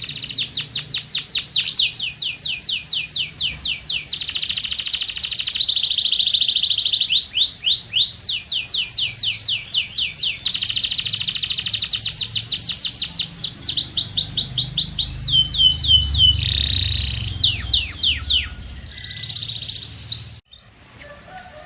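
Canary singing a long, continuous song of fast repeated trills, each phrase a run of rapid high notes or quick sweeps at its own speed and pitch, switching every second or two. The song cuts off suddenly near the end.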